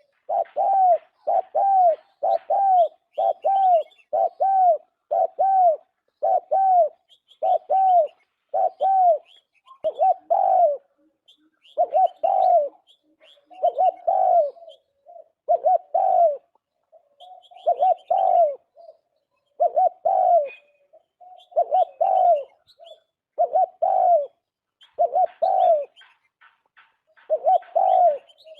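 Turtle dove cooing over and over: a steady series of short coos, about one a second, sometimes in pairs with brief pauses between. Faint higher chirps of small birds sound behind it.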